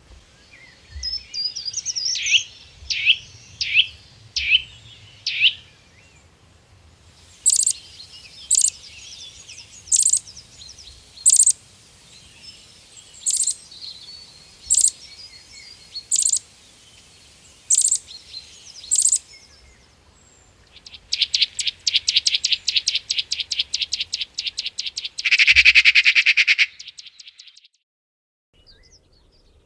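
Songbird calls in several stretches: about six quick falling whistles, then about nine sharp single notes evenly spaced, then a fast trill that ends in a loud, harsh buzz.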